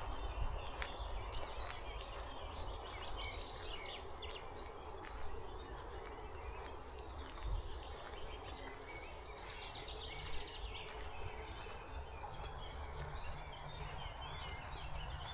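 Heavy rain falling steadily, with wind rumbling on the microphone and a few louder knocks.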